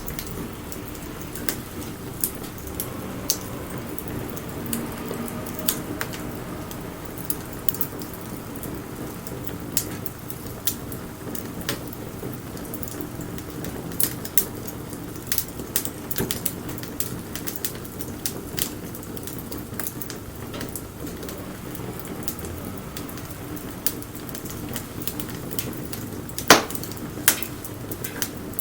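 Wood campfire crackling, with irregular sharp pops and snaps over a steady low sound of burning. One louder pop comes near the end.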